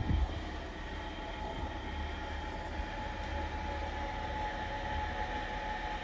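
Scania R450 truck's 13-litre six-cylinder diesel engine running steadily, a constant low rumble with steady tones above it.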